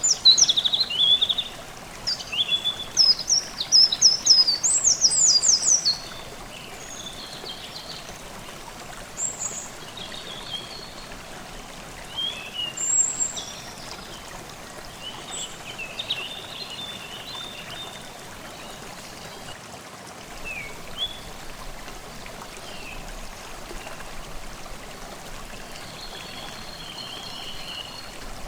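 A forest stream running steadily, with songbirds singing over it: a dense run of quick, high song phrases in the first few seconds, then scattered calls and short phrases.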